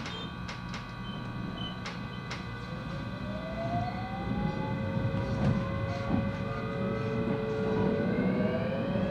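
JR West 223 series electric train's traction inverter and motors whining from inside the motor car, several tones climbing steadily in pitch from about three seconds in as the train accelerates away from a stop, over a low running rumble. A few sharp clicks in the first couple of seconds.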